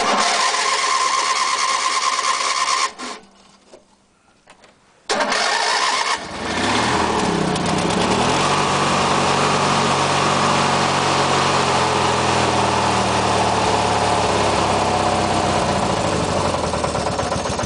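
Old 18-horsepower MTD lawn tractor engine being cranked on its starter, pausing, then cranked again until it catches about six seconds in. After catching it revs briefly and settles into a steady run, starting on stale two-year-old gas after sitting half a year.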